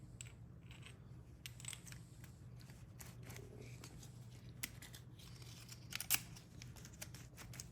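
Light scattered clicks and taps of small metal lock parts being handled during reassembly of a car door lock cylinder. The sharpest click comes about six seconds in, over a steady low hum.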